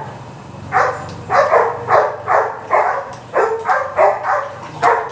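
A dog barking over and over, about two barks a second, the barks starting under a second in.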